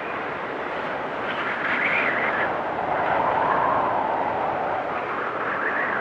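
Storm wind blowing hard and whistling, with gusts that rise in pitch about a second and a half in and again near the end, dropping lower in between.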